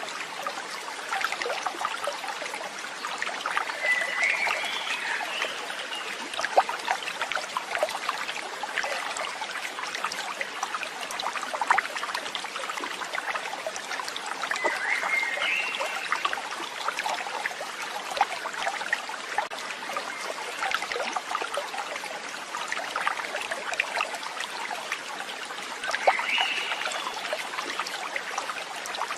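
Running water trickling and splashing steadily, like a small stream, with three short rising chirps spaced about eleven seconds apart.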